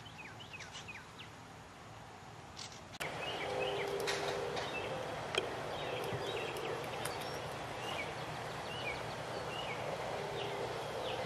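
Outdoor bird sounds: a few short falling chirps over a quiet backdrop. About three seconds in, this cuts abruptly to a louder backdrop of many birds chirping and calling.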